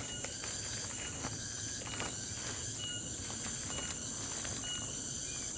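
Steady high insect buzz with a short chirp repeating about once a second, over scattered light taps and clicks.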